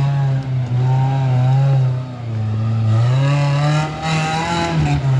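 Off-road truck's engine revving hard on a rock-crawling obstacle, held at high revs, easing off briefly about two seconds in, climbing again a second later, and dipping near the end.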